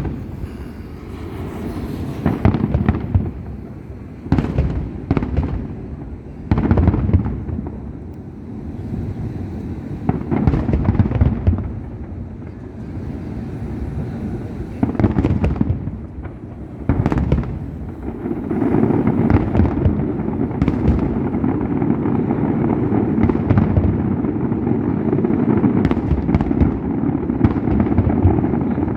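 Fireworks display: a series of booming shell bursts at irregular intervals, which merge into a dense, continuous rumble of overlapping bursts about two-thirds of the way in.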